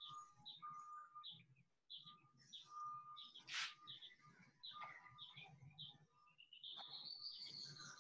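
Faint birds chirping, a run of short repeated chirps with a rising whistled call near the end. One short, louder noise about three and a half seconds in.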